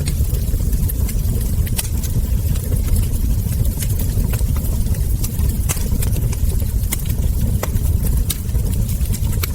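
Wood fire crackling, with frequent sharp, irregular pops from the burning logs and embers over a steady low rumble.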